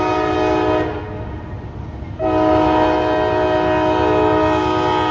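Locomotive air horn on an empty coal train, sounding as a chord of several steady tones over the train's low rumble. One blast ends about a second in, and a second, longer blast starts about two seconds in.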